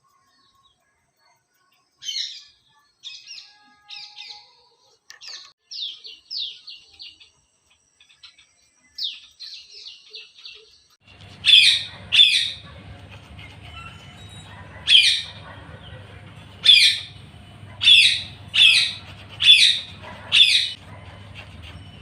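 Parrot calling: a run of short chirps in quick succession, then, about halfway through, louder sharp calls about a second apart over a steady low hum.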